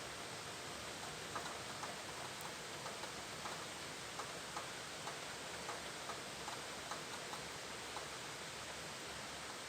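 Steady hiss of rain with water drops ticking on a hard surface, about two a second, irregular and thinning out near the end.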